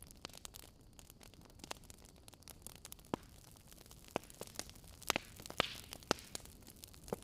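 Wood fire crackling: sharp irregular pops and snaps over a faint steady hiss, with a quick run of louder pops and a brief hiss about five seconds in.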